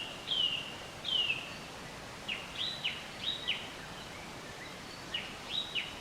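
Small birds chirping over a steady background hiss. Three short calls slide down in pitch, then quick sharp chirps follow in small clusters.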